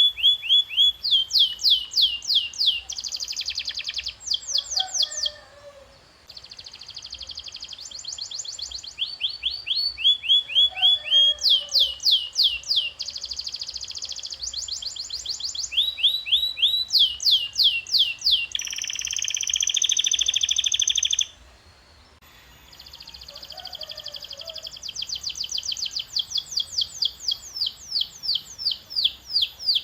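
Domestic canary singing long rolling tours: runs of rapidly repeated down-slurred whistled notes that switch to a new phrase every second or two, with a fast buzzing trill about two-thirds through. The song breaks off briefly twice.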